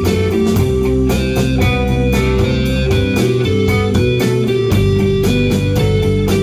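Rock band playing live, an instrumental passage: electric guitar over bass with a steady drum beat, no singing.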